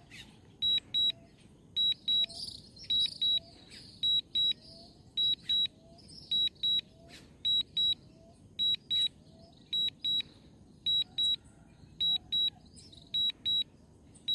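DJI drone remote controller sounding its low-battery warning: high-pitched double beeps repeating about once a second, because the Mini 3 Pro's battery is low and draining.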